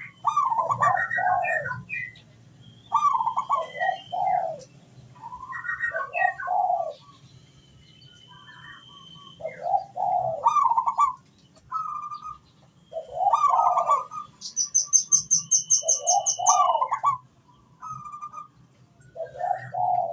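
Zebra doves cooing: repeated short phrases of several soft notes every two to three seconds. Smaller birds chirp and whistle higher up, with a fast high trill about fifteen seconds in.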